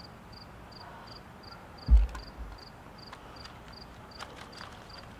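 An insect, most likely a cricket, chirping steadily at about two to three chirps a second. There is a single dull thump about two seconds in, and a few faint clicks later on.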